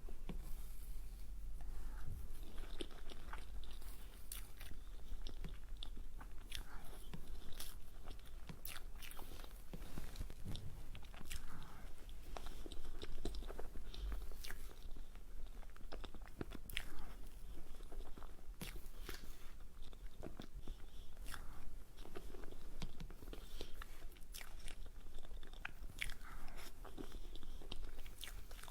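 Close-miked eating: biting into and chewing a dessert, with many short crackles and mouth clicks at irregular intervals.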